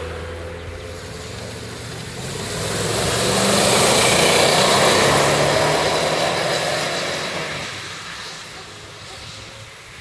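Audi A8 4.2 V8 with a dual exhaust and RS4 mufflers, its exhaust note swelling to a loud peak about four seconds in, then fading away.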